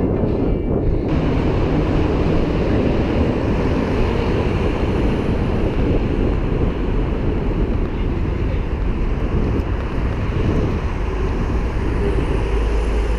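Wind buffeting a GoPro action camera's microphone while riding a bicycle: a steady, loud low rumble of rushing air.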